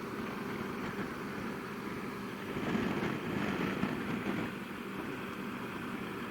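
Motorcycle engine running steadily while riding, with road and wind noise, a little louder for a couple of seconds midway.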